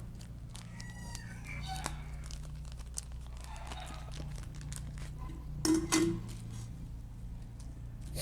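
Scattered light clicks and rustles of motorcycle parts being handled, over a steady low hum. Two louder short knocks come a little before six seconds in.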